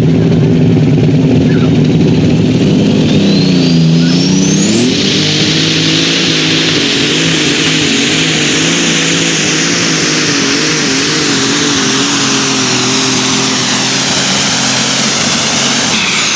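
Turbocharged pulling engine at full load on a hook, with a turbo whistle that climbs in pitch a few seconds in and then holds high. The engine's pitch sags briefly, then rises and wavers unevenly, and both drop away at the very end as the throttle comes off.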